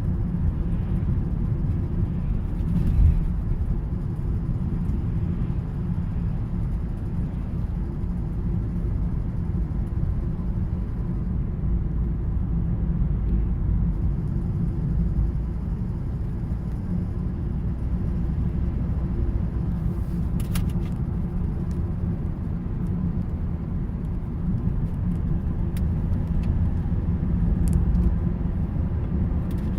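Cabin noise of a Volvo S80 2.4D five-cylinder diesel: a steady low engine and road rumble, with a few faint, sharp clicks over it, the annoying noise from somewhere in the dashboard.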